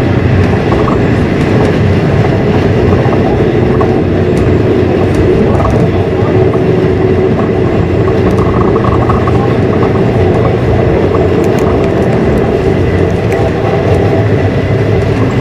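Passenger train running at speed, heard from inside the carriage: a steady, loud rumble of wheels and running gear on the rails.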